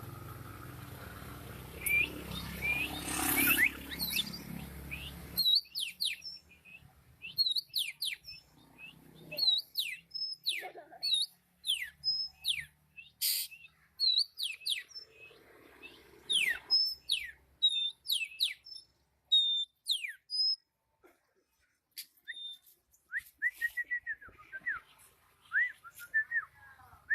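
A songbird chirping: a long run of short, sharp, high notes that each sweep down in pitch, with brief pauses between phrases. A steady background hiss drops away about five seconds in.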